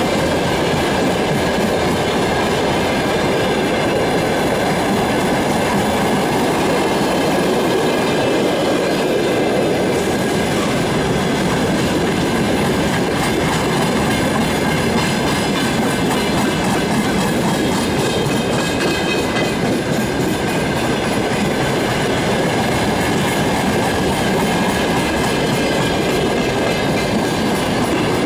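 Long freight train of open wagons rolling past close by on broad-gauge track: a steady rumble and clatter of wheels on rail. A faint, steady high-pitched ringing runs over it.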